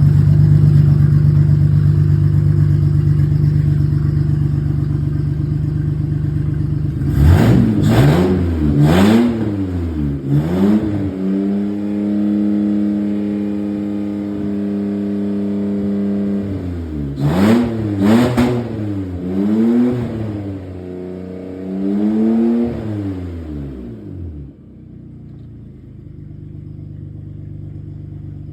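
2005 Honda Pilot's V6 running with no exhaust fitted: idling, then blipped several times, held at a steady higher speed for a few seconds, blipped a few more times, and dropping back to a quieter idle near the end.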